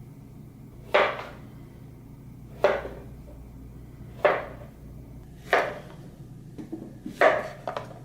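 A kitchen knife slicing through zucchini and striking the cutting board: five sharp chops about a second and a half apart, with a few lighter taps near the end.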